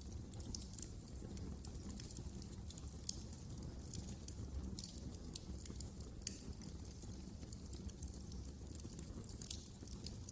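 Wood fire crackling in a fireplace: frequent irregular small pops and snaps over a low, steady rumble of the flames.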